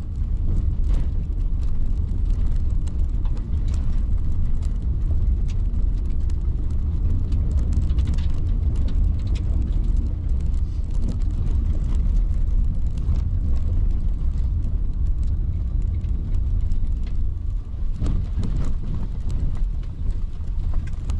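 Road noise inside a moving car's cabin: a steady low rumble from the tyres and engine, with occasional light clicks and knocks.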